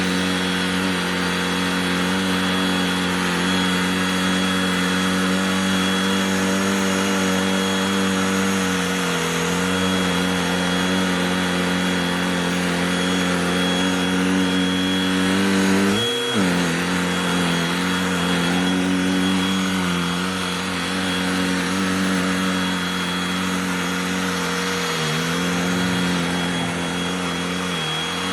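Cordless handheld vacuum motor running steadily with a faint high whine. Its pitch sags briefly a few times as the nozzle loads up against carpet, most sharply about sixteen seconds in.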